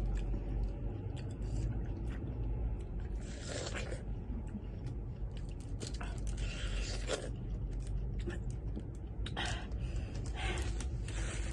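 Close-up eating sounds: chewing and crunching food in short, irregular spurts, over a steady low hum.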